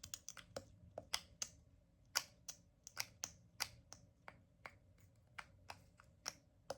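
Light, crisp ASMR tapping: fingernails tapping, about two to three irregular clicks a second.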